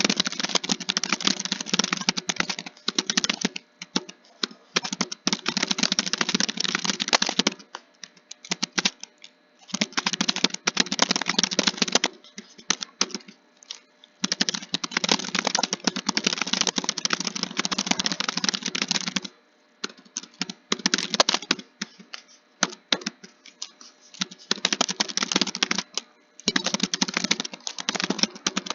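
Typing on a computer keyboard: fast runs of key clicks lasting two to five seconds each, broken by short pauses.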